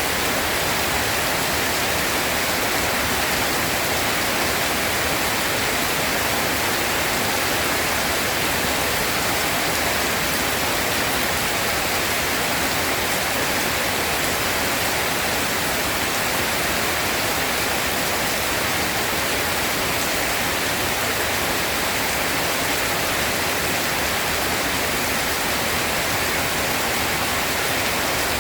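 Steady, heavy rain: an even, unbroken hiss.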